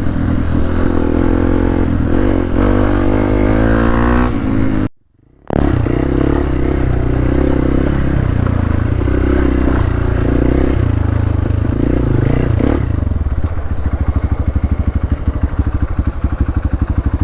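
Single-cylinder engine of a Hero Xpulse 200 motorcycle running under load off-road, the revs rising and falling. There is a half-second gap about five seconds in. From about thirteen seconds in the engine settles to a slower, even beat.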